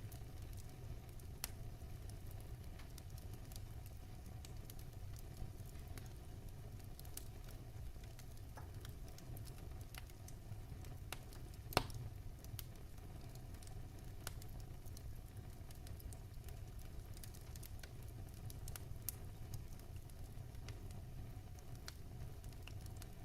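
Wood fire burning in a fireplace: a steady low rumble with scattered small crackles and pops, one sharper pop about halfway through.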